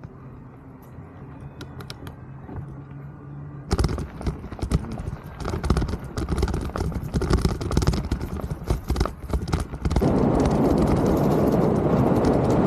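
Mountain bike riding over rough ground: quiet at first, then from about four seconds in a loud clatter of rapid knocks as the bike rattles over the trail. About ten seconds in it turns into a steady, loud rushing noise of tyres and wind.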